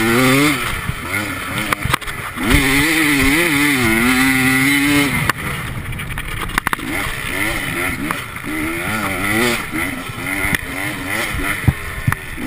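Enduro motorcycle engine on the bike itself, under hard riding: the revs climb and drop again and again as the rider accelerates and shifts, with a few sharp knocks from the bike over bumps.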